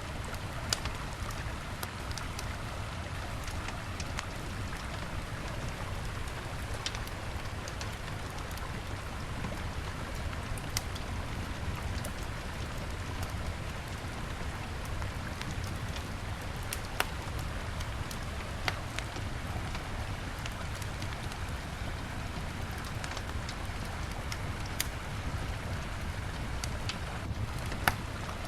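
Wood fire crackling with scattered sharp pops over the steady rush of a river.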